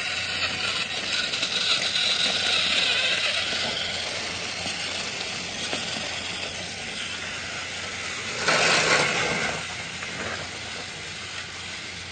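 Train sounds: a steady rushing noise, with a louder burst of hiss lasting about a second two-thirds of the way through, like steam being let off.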